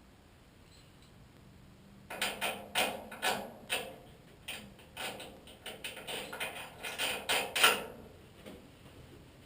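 A run of irregular mechanical clicks and clanks, starting about two seconds in and stopping near the end.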